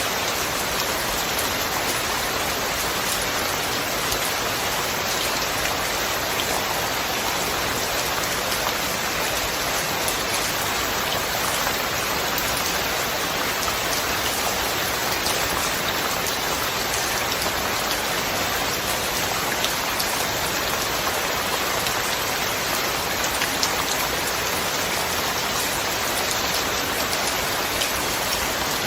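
Steady, even rain falling, with a continuous hiss of drops on surfaces and scattered small drop ticks; no thunder.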